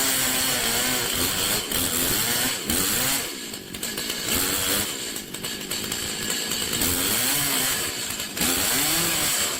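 Chainsaw running, its revs repeatedly rising and falling as it works; it drops to a lower, quieter run from about three to five seconds in, then revs back up.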